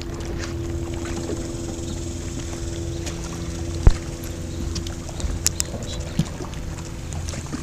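Boat motor running steadily, with a sharp knock about four seconds in.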